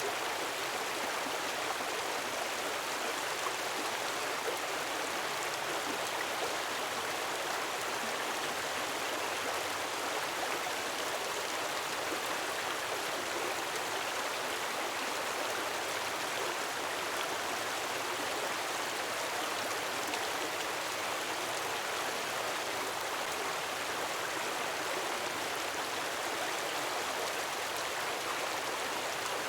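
Gentle waterfall splashing steadily, an even rush of falling water with no let-up.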